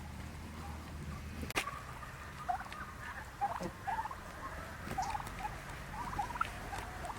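Scattered short, squeaky chirps and cheeps from small animals or birds, with one sharp click about a second and a half in, over a low steady background hum.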